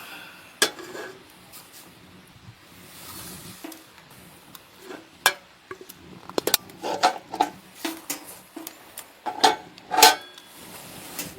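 A run of irregular sharp clinks and knocks from hard objects being handled, several with a short metallic ring; the loudest comes about ten seconds in.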